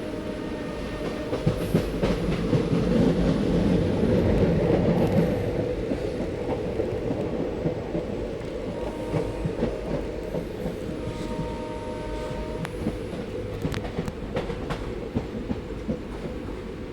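A train running along the track, its wheels clattering over the rails with a steady rumble that swells for a few seconds near the start. A few sharp clicks come in about two-thirds of the way through.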